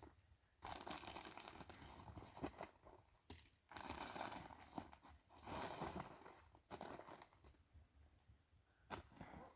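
Faint crunching and rustling in irregular bursts, about a second or two each, with a sharp click near the end.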